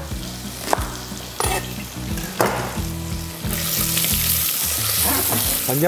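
Diced pancetta sizzling in hot oil in a saucepan over a fairly high flame and being stirred; the sizzle grows louder from a little past the middle. A few sharp knocks of a knife on a cutting board come in the first half.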